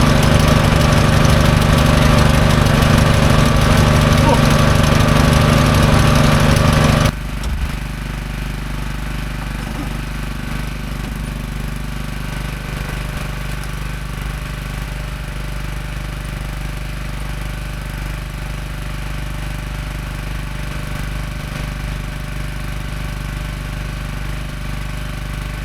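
Engine of a hydraulic bandsaw mill running hard, then dropping abruptly about seven seconds in to a quieter steady idle.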